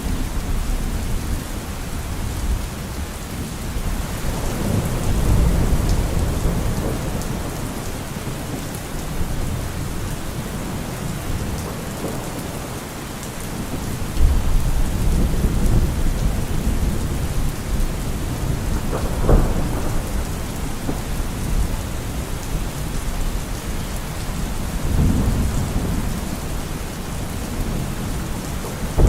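Steady heavy rain falling, with thunder rumbling low several times and a sharper crack of thunder about two-thirds of the way through.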